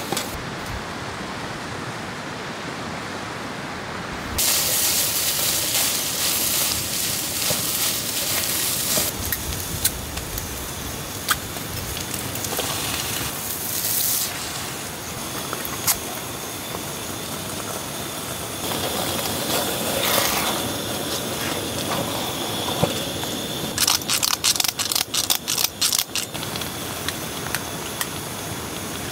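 Camp cooking in a frying pan: a loud sizzle starts about four seconds in as food goes into the hot oil, then settles into softer sizzling with scattered pops. Near the end comes a quick run of knife chops on a board, over a steady background hiss.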